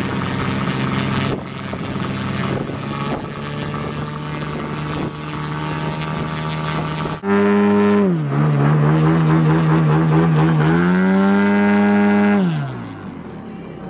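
Radio-control aerobatic model airplane engine running steadily. After a sudden change about seven seconds in, a louder engine drops in pitch for a few seconds, throttles back up, then winds down near the end.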